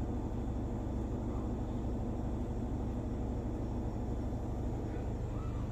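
Steady low hum with a faint hiss, even and unchanging throughout.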